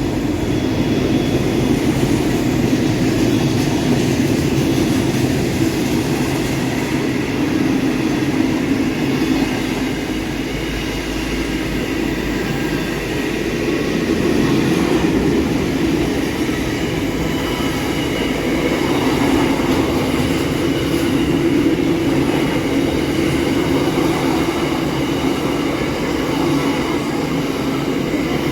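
Pacific National freight train, hauled by an NR class diesel-electric locomotive, passing close by: a continuous, very loud rolling rumble of its many wagons on the rails.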